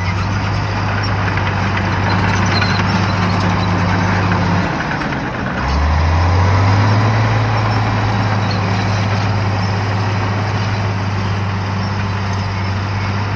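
Shantui bulldozer's diesel engine running hard, easing off briefly about five seconds in, then revving back up and holding at a slightly higher pitch.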